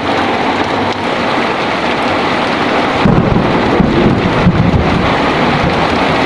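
Heavy rain falling steadily, with a low rumble of thunder rolling in about three seconds in and lasting a couple of seconds.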